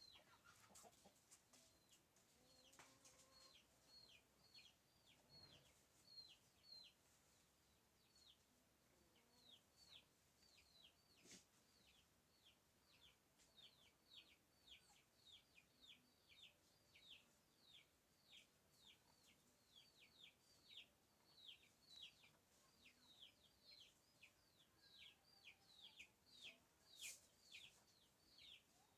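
Faint, rapid series of short high peeps, each falling in pitch, repeated about twice a second without a break: a bird peeping, like chicks calling.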